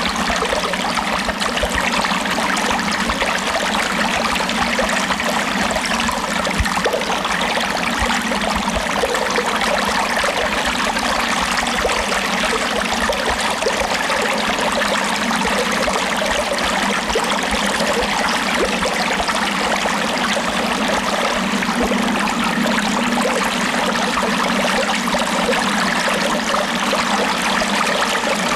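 Water running steadily in a stream, an even rushing and trickling with no breaks.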